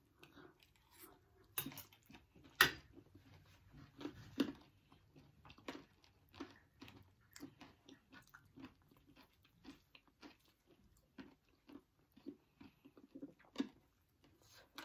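Close-miked chewing of mouthfuls of chatpate, a spicy puffed-rice snack, with irregular small crunches and mouth clicks throughout; the sharpest crunch comes about two and a half seconds in.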